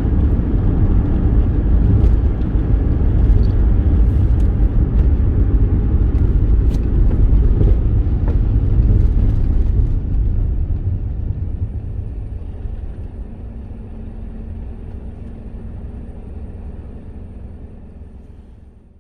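Car driving: a steady low rumble of engine and road noise that fades away over the second half.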